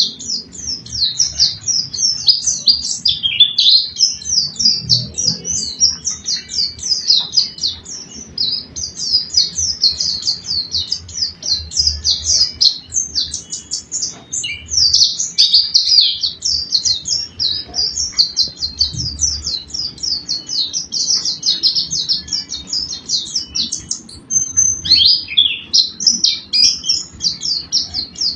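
Small songbirds singing a continuous, rapid, high-pitched chattering song of quick chirps and trills with hardly a break, and a short clear whistled note a little before the end.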